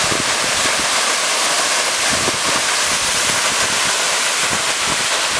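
A large waterfall's steady rush of falling water. The wind the falling water makes buffets the microphone in uneven gusts.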